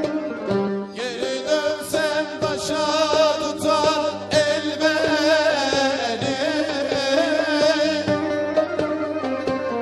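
Turkish fasıl ensemble playing folk music: plucked saz-type strings and hand percussion under a lead melody with strong vibrato that comes in about a second in and drops out near the end.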